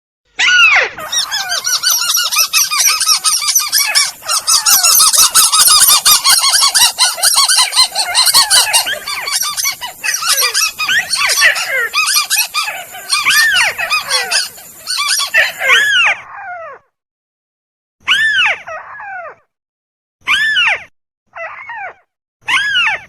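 Crakes (burung tikusan) calling over and over: harsh, arching calls that overlap thickly, with a dense high-pitched chatter above them for the first two-thirds. After that the calls come in short separate bursts with brief silences between.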